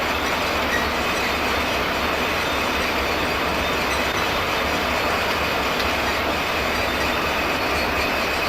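Freight train cars rolling past close by in a steady, loud rush of wheel and rail noise, with a thin high wheel squeal running through it.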